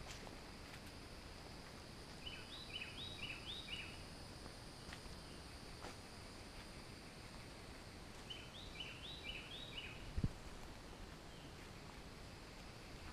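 A songbird singing, twice, a few seconds apart: each song is a quick run of four repeated two-note phrases. A faint steady high hiss runs underneath, and there is one short low thump about ten seconds in.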